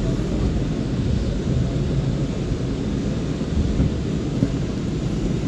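R179 subway train running, heard from inside the car: a steady low rumble of wheels and running gear on the track.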